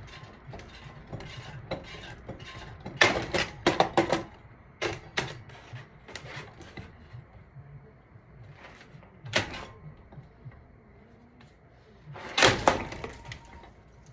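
Irregular cracks, knocks and clatter of an old ceiling fan being broken apart, with a loud cluster of hits about three seconds in, single strikes after it, and another loud cluster near the end.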